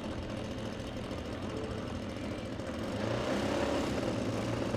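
Model airplane engine running steadily, getting louder about three seconds in.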